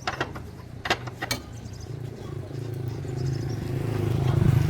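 Tractor engine running steadily and growing louder toward the end, with a few sharp metallic knocks in the first second and a half.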